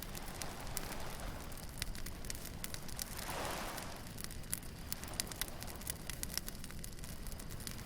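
Beach bonfire crackling with frequent sharp pops, and a wave washing in on the shore about three seconds in.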